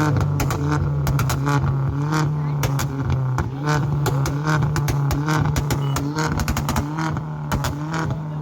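Motor vehicle engines running with a steady low drone, mixed with the voices of a crowd.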